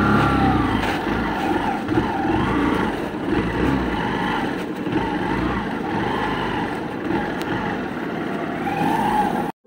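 Hero Super Splendor BS6's 125 cc single-cylinder engine pulling away and riding slowly, its pitch rising and falling again and again as the throttle opens and closes. It cuts off suddenly near the end.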